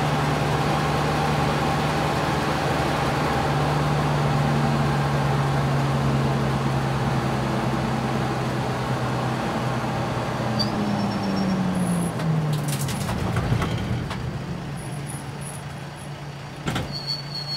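Race car engine running at a steady pitch, then falling in pitch as the car slows, with a few sharp knocks about two-thirds through and the engine sound fading near the end.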